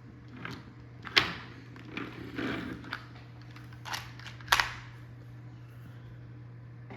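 Plastic toy construction vehicles being handled: a handful of clicks and knocks, sharpest about a second in and again about halfway through, with some soft scraping between. A steady low hum sits under it.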